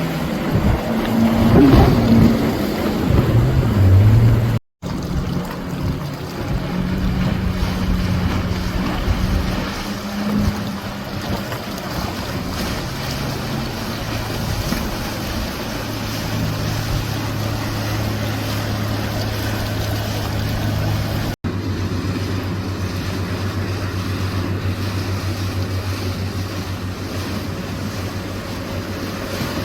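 Motorboat engines running as boats pass through an inlet, a steady low drone with wind on the microphone and wash from the waves. The engine note shifts in the first few seconds, then settles into a steady drone, and the sound cuts out abruptly twice.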